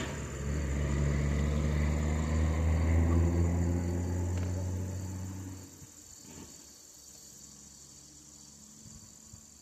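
38cc Homelite two-stroke chainsaw engine running steadily, then fading and dying out about six seconds in. Crickets chirp after it stops.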